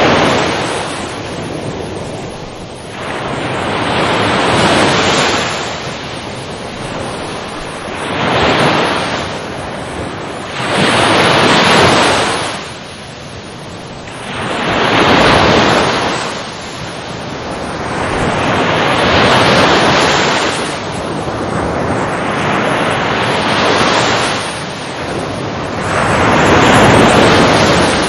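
Ocean waves breaking and washing up the shore in a continuous rushing surf. It swells and ebbs in surges about every four seconds.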